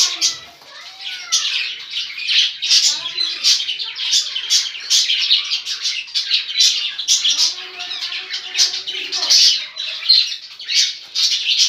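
Caged pet birds, cockatiels among them, chirping and squawking over each other in a constant dense chatter, with lower drawn-out calls coming and going.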